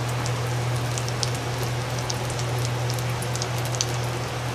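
Egg-dipped bread frying in hot oil in a small pan: a steady sizzle with scattered small pops and crackles, over a steady low hum.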